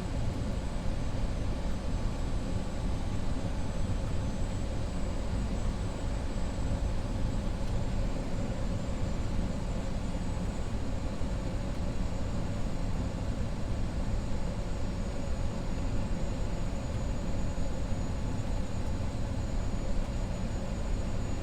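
Steady cockpit noise of an Avro RJ100 on final approach with gear and flaps down: the rush of airflow and the hum of its four turbofan engines, with a few faint steady tones.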